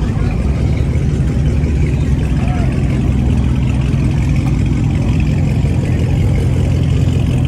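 Car engine idling with a steady, loud low rumble.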